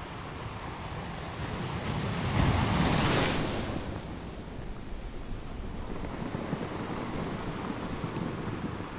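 Sea surf: waves washing in, one rising to a loud peak about two and a half seconds in and then falling away into a steady wash.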